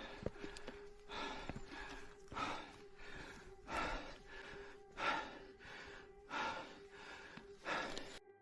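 A person breathing hard in heavy gasps, six breaths about 1.3 seconds apart.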